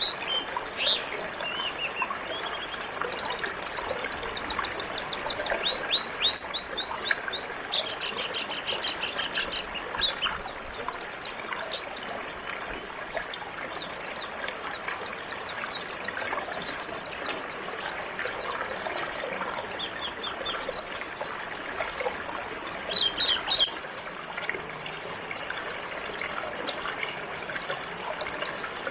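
Pleci (white-eyes) chirping and twittering in quick runs of short high notes over the steady trickle of flowing river water.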